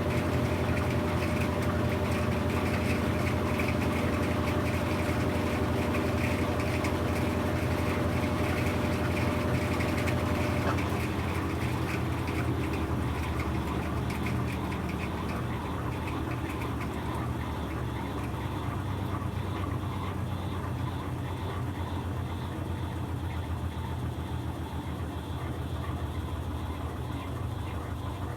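Brastemp BWK17 17 kg washing machine running mid-cycle: a steady low motor hum with a fast, even pulsing. About 11 seconds in, a higher held tone stops and the sound eases slightly.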